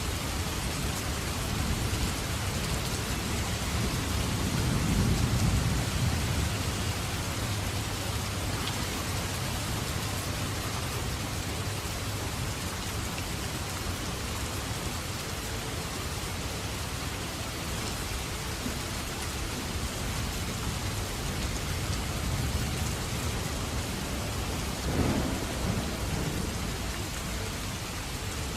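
Steady heavy rain with thunder: a low rumble swells about four to six seconds in, and a sharper crack with rumble comes near the end.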